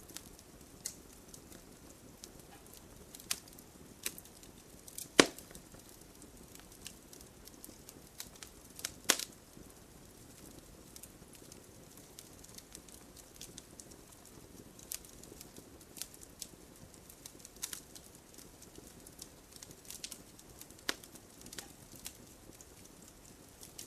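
Campfire burning: a soft steady hiss under irregular sharp crackles, with two louder pops about five and nine seconds in.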